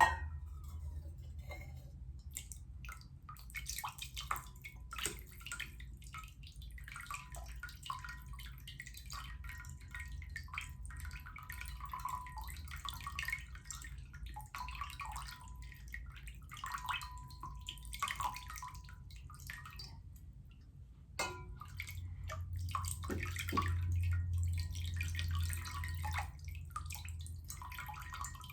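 Water being handled by hand: irregular small splashes, drips and trickles, with a low steady hum underneath that grows louder for a few seconds near the end.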